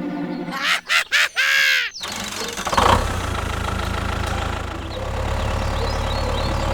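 A quick run of sweeping whistle-like tones, then from about three seconds in an engine running steadily with a low, even rumble.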